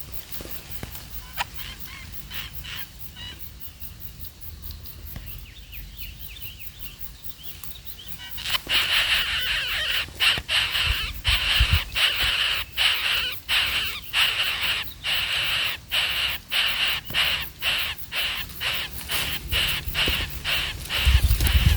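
Birds calling: a fast string of short, shrill calls, faint at first and much louder from about eight seconds in.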